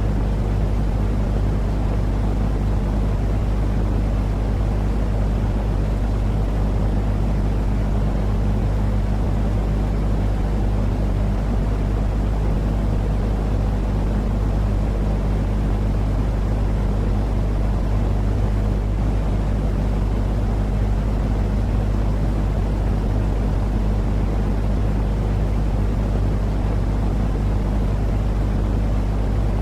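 Steady, unchanging low rumbling noise with a faint hum in it, played as a sleep sound to calm crying babies.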